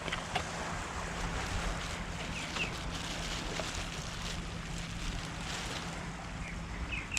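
Seaside wind and surf noise with wind buffeting the microphone, over a steady low hum, with a few faint high chirps scattered through.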